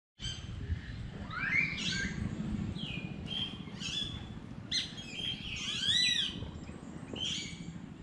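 Several birds calling at once: a string of short chirps and whistled notes that arch up and down in pitch, some overlapping, the loudest near the middle. A low steady rumble runs underneath.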